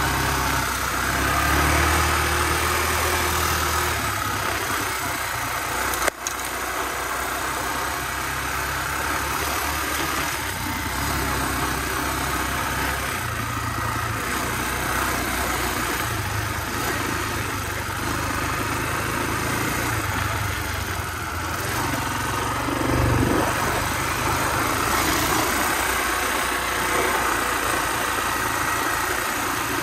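Honda XR250R's single-cylinder four-stroke engine running under way, its speed rising and falling several times as the throttle is worked. A single sharp knock sounds about six seconds in.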